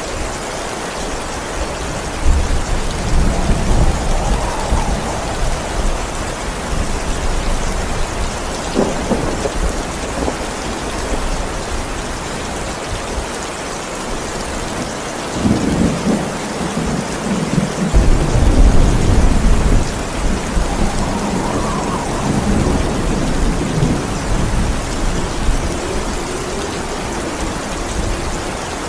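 Steady heavy rain with rolling thunder: several deep rumbles swell and fade, the loudest and longest about two-thirds of the way through.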